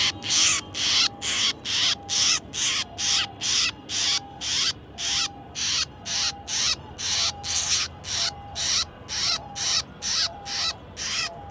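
A bird giving harsh, rasping calls in a steady rhythm, about two a second.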